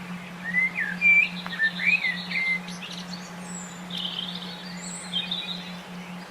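Songbird calling: a few short whistled notes sliding up and down, then quick buzzy trills, over a steady low hum.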